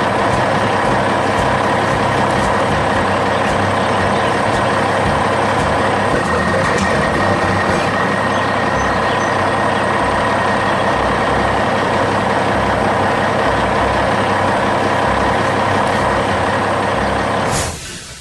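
Heavy dump truck engine running steadily under load, with a hiss over the rumble and a few thin steady whining tones. It cuts off sharply near the end.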